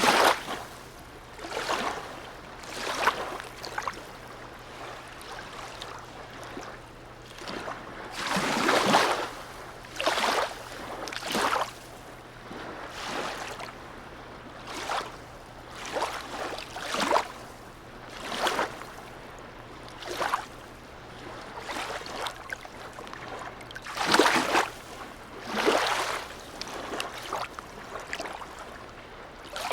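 Harbour water lapping and sloshing against the quayside in irregular splashes every second or two. The biggest splashes come about nine and twenty-four seconds in.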